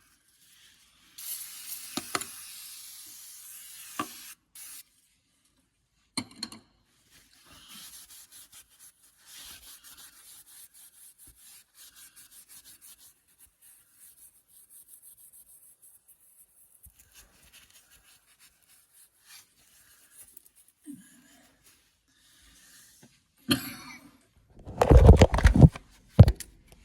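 An aerosol cleaner is sprayed for about three seconds. A cloth is then wiped in short, even strokes over the bare metal of the engine block, cleaning it for a dye penetrant test. Louder scuffs and knocks come near the end.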